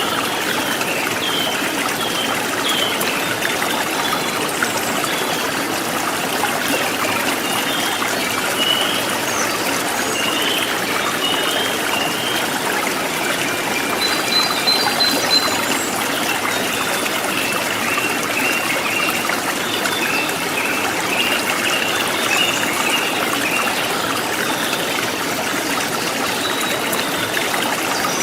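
River water flowing over stones in a steady rushing trickle, with short high chirps scattered above it.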